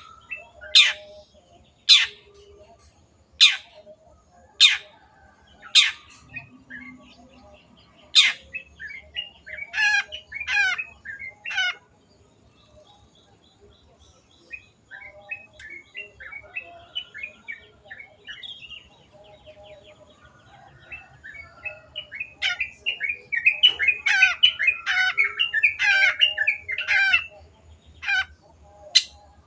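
Long-tailed shrike (cendet) singing. It opens with a string of sharp, harsh calls about once every second or so, then moves into rapid warbling and twittering phrases. Near the end these build into a dense, loud burst of chattering.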